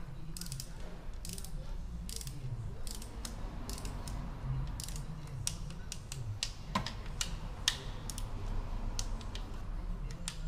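A hand ratchet wrench clicking in short, irregular runs, with scattered metal tool clicks.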